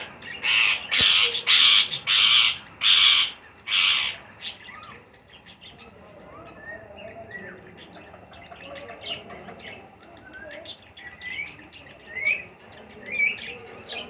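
Baby ringneck parakeets begging to be fed: five or six loud, harsh rasping squawks in the first four seconds, then soft, short chirps for the rest.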